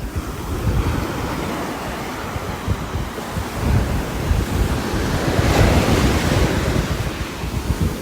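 Heavy rain and strong gusting wind, with a gust swelling louder about five and a half seconds in.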